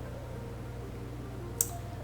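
A steady low hum with a few faint sustained tones above it, and one sharp short click a little past the middle.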